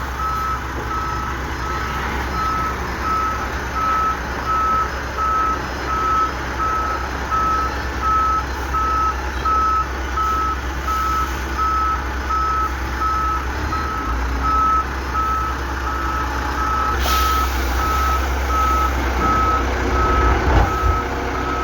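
Garbage truck's reversing alarm sounding a steady, evenly spaced beep over the truck's engine running, with a short hiss about three-quarters of the way through.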